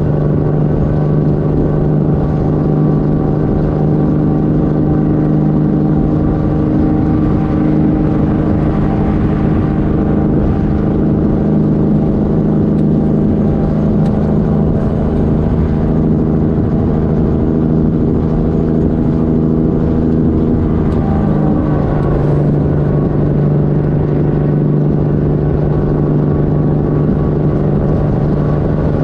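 Straight-piped diesel engine of a Kenworth W900 truck running steadily under way. Its note shifts about 21 seconds in, then holds steady again.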